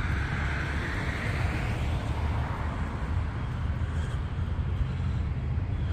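Road traffic on a city street: a steady rumble, with a vehicle going by in the first couple of seconds.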